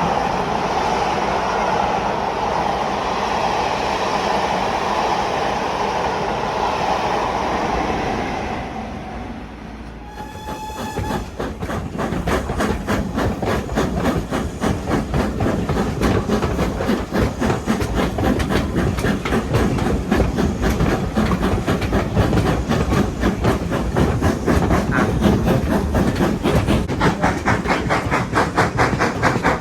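A train running past, an even rushing rumble that fades away about a third of the way in. Then a short whistle, and a train running by with a fast, even clattering beat.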